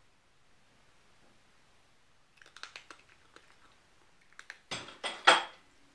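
Small clicks and clinks, then a louder clatter of dishes about five seconds in, with the loudest knock near the end.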